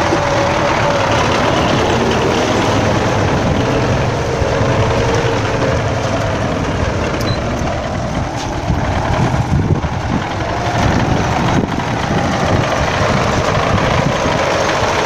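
MTZ-82 tractor's four-cylinder diesel engine running steadily while the tractor levels the shore ground.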